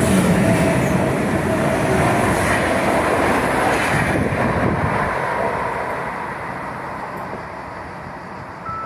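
A train running through the station on the rails, loud wheel-and-rail noise that fades away over the second half as it moves off.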